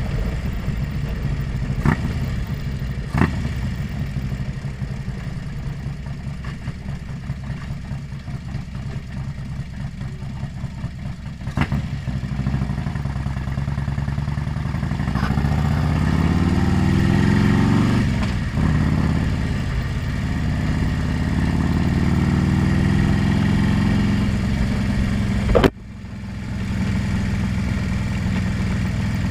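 Motorcycle engine recorded from a helmet-mounted camera: running low and steady at first, then revving up with a rising pitch about halfway through, dipping briefly, and holding steady after. A few sharp clicks, the loudest near the end.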